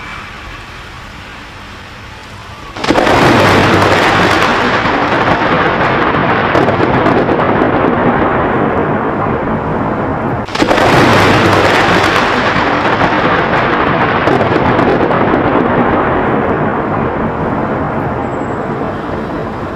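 Thunder from close lightning strikes: a sudden loud crack about three seconds in, rumbling on and slowly fading, then a second sudden crack about ten and a half seconds in, again rolling on and slowly dying away.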